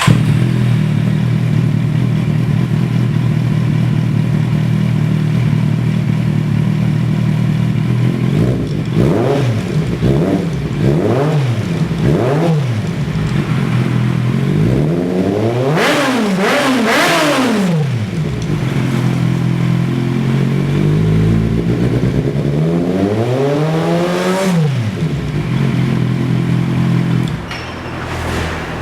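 Kawasaki Z800 inline-four motorcycle engine through an aftermarket PDK muffler, catching and settling into a steady idle, then revved: four quick throttle blips, a bigger double rev, and a slower rev, each falling back to idle. The engine is shut off near the end.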